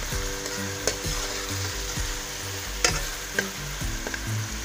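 Chopped onion and ginger-garlic paste frying in hot oil with a steady sizzle while a spatula stirs and scrapes through the pan. A few sharp clicks of the spatula against the pan come through, the loudest about three seconds in.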